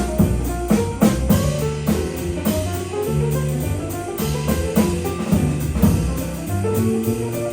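Small jazz combo playing: a bass walks note by note under a drum kit's cymbals and drums, with a melodic line above.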